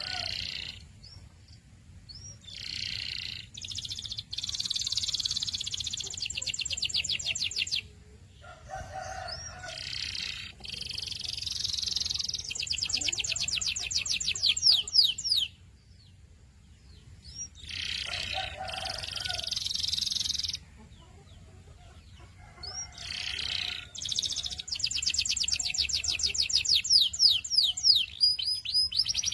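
Domestic canary singing in four phrases a few seconds long, with short pauses between them. Each phrase ends in fast trills (rolls) of rapidly repeated high notes.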